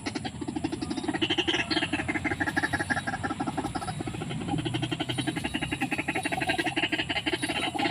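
White-breasted waterhen calling: a fast pulsing, croaking series with higher notes that slide downward now and then.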